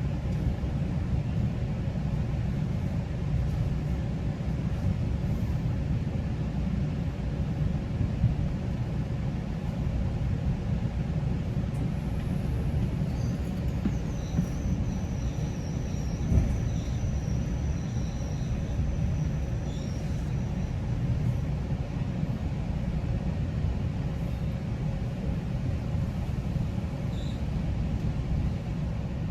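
GO Transit commuter train rolling along the line with a steady low rumble. A faint thin high whine comes in about halfway through and fades a few seconds later.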